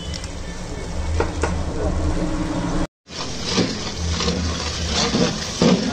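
Onion, tomato and turmeric masala frying and sizzling in oil in a large metal pot, with a spatula scraping and stirring across the pot's bottom in repeated strokes. The sound cuts out for an instant about halfway through.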